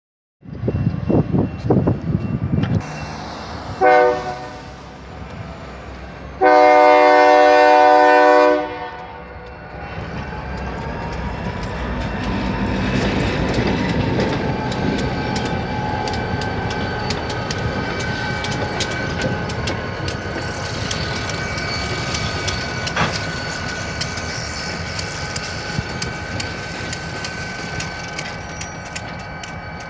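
Diesel freight locomotive's horn sounds a short blast about four seconds in, then a longer blast lasting about two seconds. The train then rolls through the grade crossing with a steady rumble and the repeated clack of tank-car wheels over the rail joints.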